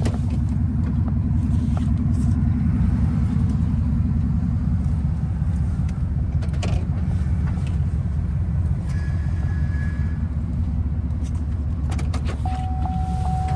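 Pickup truck engine idling steadily, a deep, continuous exhaust rumble.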